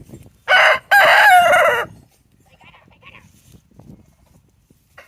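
Rooster crowing once, about half a second in: a short first note, then a longer drawn-out call lasting about a second.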